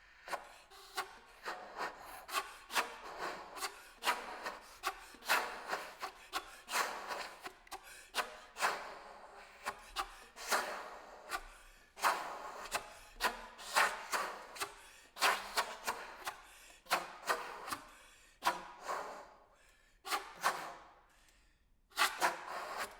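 Saxophone played with extended techniques: an irregular stream of short, rasping clicks and breathy pops, several a second, with no held notes, pausing briefly near the end.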